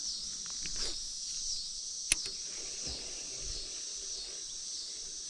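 Insects calling in a steady high chorus that pulses a little under twice a second, with one sharp click about two seconds in.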